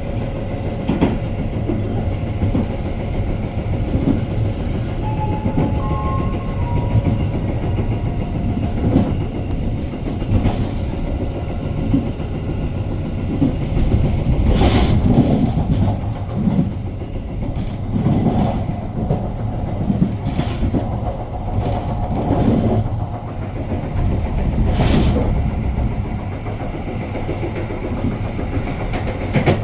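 KA Argo Bromo Anggrek passenger train running at speed: a steady rumble of wheels on the track with irregular clicks and knocks. It grows louder for a few seconds about halfway through and again briefly near the end.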